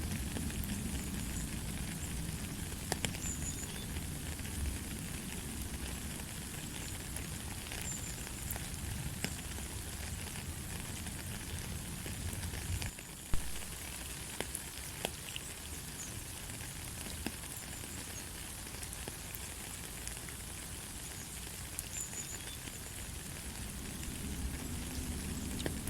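Steady light rain: an even hiss with scattered sharp drip ticks. About thirteen seconds in, the hiss drops briefly and a single sharp click stands out.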